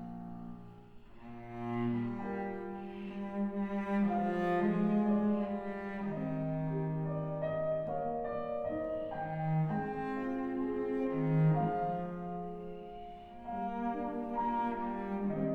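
Cello playing a slow melody of long, held notes with vibrato, accompanied by piano, in live classical chamber music.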